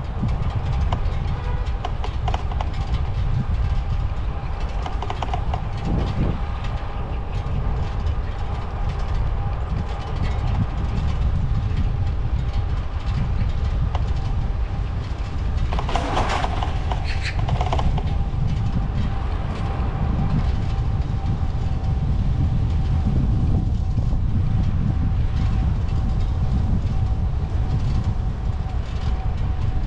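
Steady low rumble of a bicycle ride, wind and tyre noise, with a thin steady whine running through it and a brief louder sound about halfway through.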